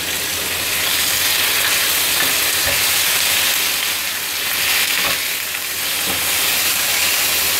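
Raw chicken strips sizzling steadily in hot oil and garlic in a nonstick frying pan as they are stirred with a wooden spatula, with a few faint taps of the spatula on the pan.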